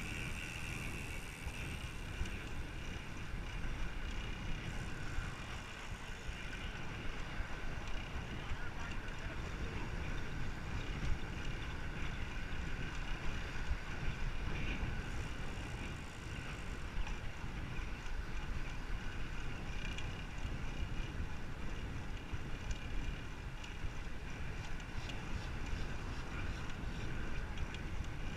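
Steady wind rush buffeting the microphone of a camera on a moving bicycle, mixed with rolling road noise.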